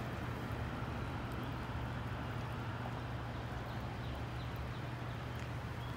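Tail end of a CSX freight train rolling away on the main line, a steady low rumble of wheels on rail with a constant low hum.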